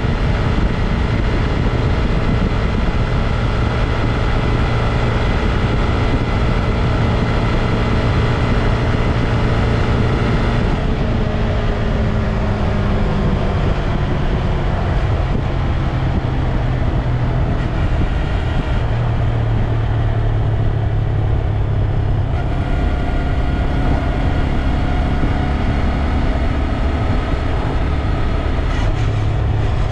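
Honda Grom's 125 cc single-cylinder engine running steadily, its pitch sliding down a little about a third of the way through.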